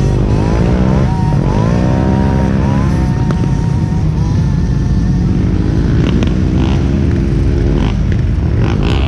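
Off-road engine revving, its pitch climbing and dropping several times in the first few seconds, over a heavy low rumble that carries on steadily afterwards.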